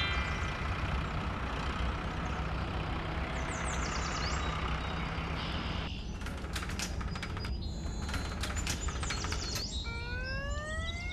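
Cartoon sound effect of a garbage truck engine, a steady low rumble. From about six seconds in comes a burst of high chirps and clicks. Near the end a siren starts and rises in pitch.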